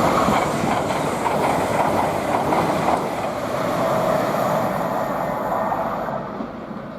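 LNER Class 800 Azuma train passing at speed: a loud, steady rush of wheel and rail noise that fades away near the end.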